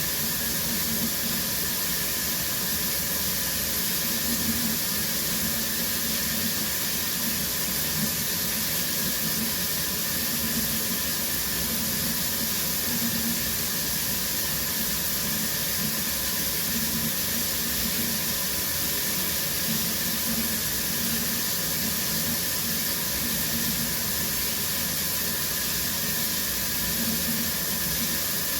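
Shower running steadily, water spraying and splashing with an even hiss.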